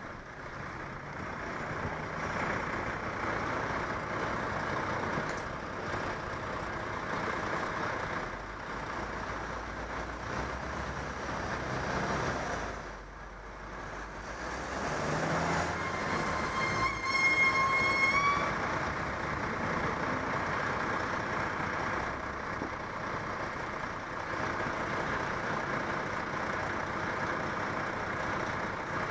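City road traffic heard from a bicycle riding through it: a steady rush of engine, tyre and wind noise. About sixteen seconds in, a high held tone sounds for about two seconds, rising slightly at the end.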